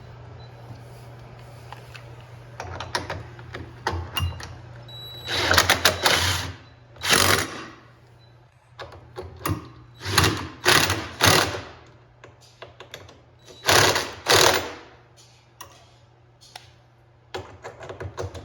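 Power drill/driver spinning in several short bursts, the longest about a second, driving screws into the washing machine's parts.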